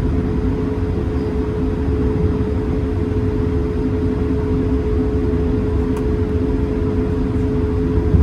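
Steady cabin noise inside an Airbus A220-300 on the ground: a low rumble with a steady hum.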